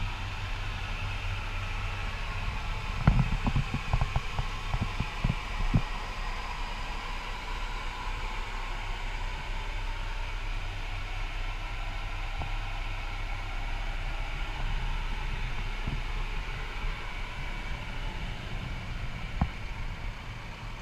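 CAT 420F backhoe loader's diesel engine running steadily at a low idle, with a few sharp knocks and clanks about three to six seconds in and once more near the end.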